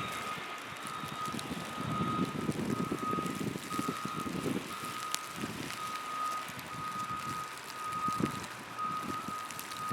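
Heavy vehicle's reversing alarm beeping steadily, about three beeps every two seconds, over the low rumble of engines and traffic.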